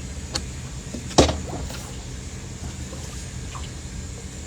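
A steady low hum runs throughout. About a second in there is a single loud, sharp knock, and a faint click just before it.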